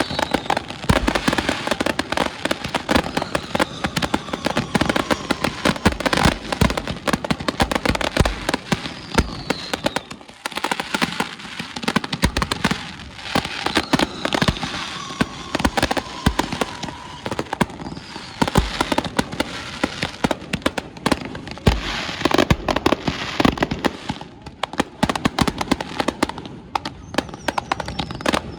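Aerial fireworks going off in a dense barrage: rapid bangs and crackling, with a few whistles falling in pitch, and a brief lull about ten seconds in.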